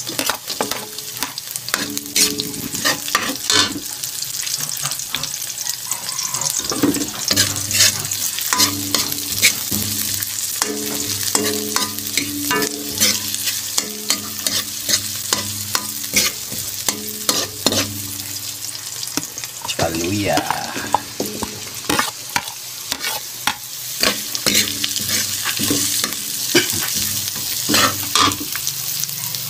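Garlic, chili and onion frying in oil in a steel wok, sizzling steadily, while a metal spatula stirs and scrapes against the pan in frequent sharp clicks and scrapes.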